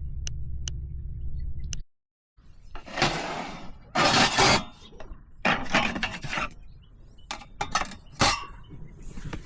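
Tableware and cookware clattering and clinking in a run of short, uneven knocks and scrapes, after a low steady rumble that cuts off about two seconds in.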